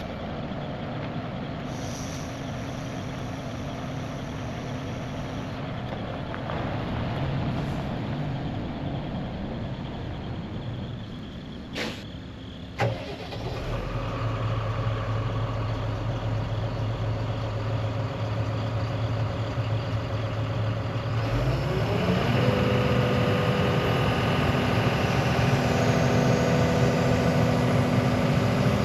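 Diesel engine of a Case CX220 excavator starting a little under halfway through after two sharp clicks. It then runs steadily and throttles up with a rising pitch to a higher, louder steady speed, ready to be driven off the trailer. Before the start, another engine idles steadily.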